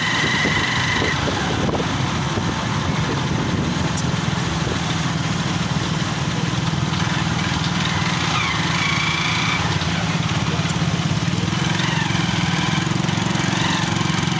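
Honda motorcycle's engine running steadily as it rides along, mixed with the engines of other motorcycles close by.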